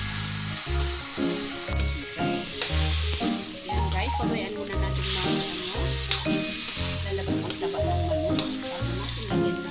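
Chicken pieces and potato chunks sizzling in hot oil in a large wok as they are stirred and browned. Background music with a steady, pulsing bass beat plays over the frying.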